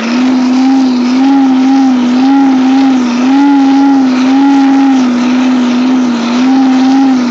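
Champion 400 hand-crank forge blower being cranked, blowing air into the coal fire: a steady whine, its pitch rising and falling slightly with the cranking, over a rush of air.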